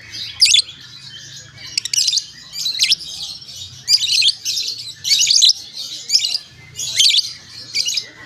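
A pet bird giving short, shrill, harsh chirps over and over, in quick clusters every half second to a second, over a faint low hum.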